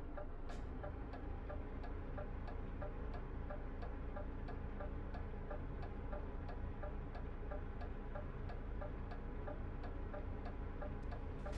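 Truck's turn-signal indicator clicking steadily, about two clicks a second, over the low rumble of the truck's engine heard inside the cab.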